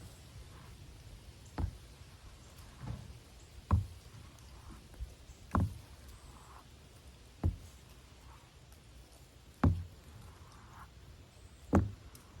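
A series of sharp knocks, six loud ones about two seconds apart, with a few fainter ones between.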